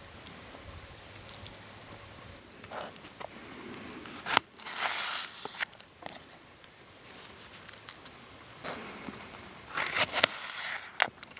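Campfire crackling steadily. Two louder bursts of crinkling and crackling come about four seconds in and again near the end, each with sharp snaps.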